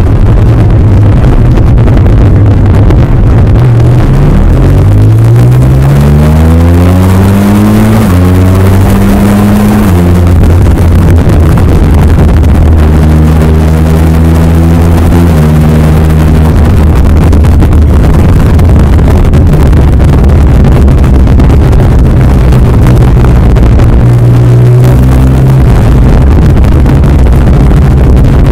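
Honda VFR1200F's V4 engine running through a DAM aftermarket exhaust, heard on board while riding. The engine note climbs in pitch under acceleration, steps at a gear change, then holds a steady note before easing off and climbing again near the end.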